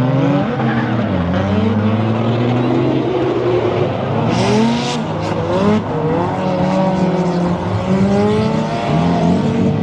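Drift cars' engines revving up and down on track, more than one at a time, with a short burst of tyre noise about four seconds in.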